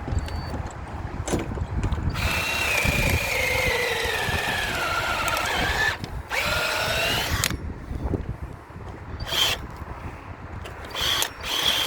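A hand-held power tool shaping wood. Its motor whine drops in pitch as it bites under load and picks back up, over a run of about four seconds. A shorter run follows, then a few brief blips of the trigger near the end.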